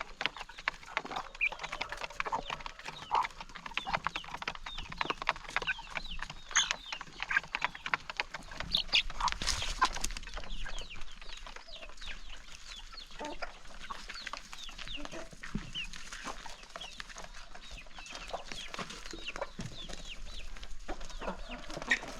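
A flock of chickens clucking as they eat, with many quick pecking clicks on the feed. The clucking and pecking are busiest about halfway through.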